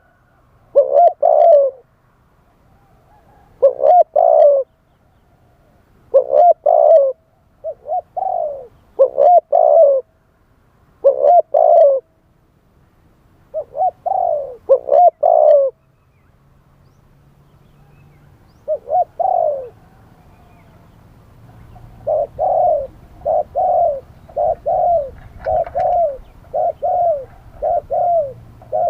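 Spotted dove cooing in short groups of two or three falling coos with pauses of a second or two between them. In the last third the coos settle into an even run of about one every half second or so, over a faint low hum.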